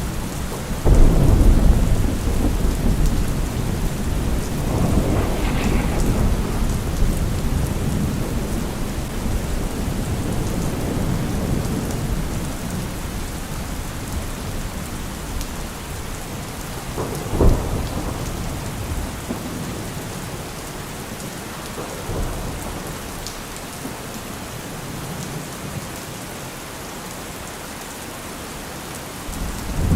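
Steady rain falling, with thunder: a heavy low rumble about a second in that rolls on for several seconds, a short sharp crack a little past halfway, and a fainter clap a few seconds later. The rain grows quieter toward the end.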